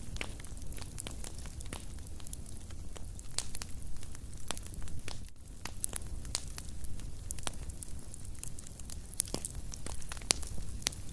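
Wood fire in a fireplace crackling steadily: frequent irregular sharp pops and snaps over a low rumble of burning.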